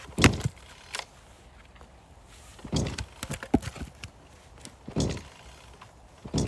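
Axe blows splitting firewood: about six separate woody knocks and cracks spaced a second or two apart, the loudest right at the start.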